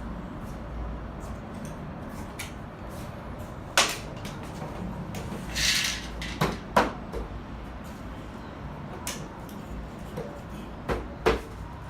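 Sharp knocks and clacks from sliding balcony glass panels and their fittings being handled, with a short scraping hiss about six seconds in, over a steady low hum.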